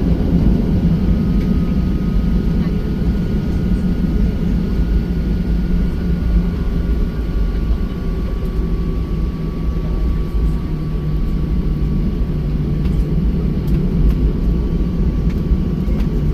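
Boeing 737-800 cabin noise: the CFM56-7B jet engines and airflow make a steady, loud rumble, with a faint, even whine from the engine fans.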